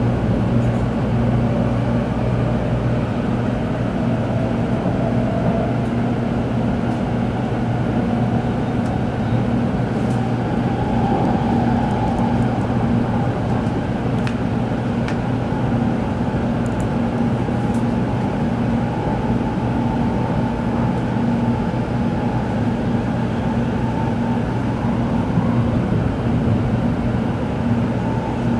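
Shinkansen running noise from inside the passenger car: a steady low hum with a faint motor whine that rises slowly in pitch over the first dozen seconds as the train gathers speed, then holds.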